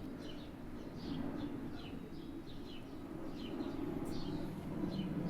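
Birds chirping: a run of short, quick falling chirps repeated about once or twice a second, over a steady low background rumble.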